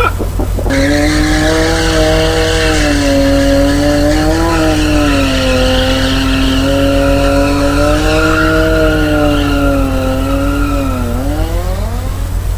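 Motorcycle engine held at high, nearly steady revs, its pitch wavering slightly, then dropping sharply and climbing again near the end.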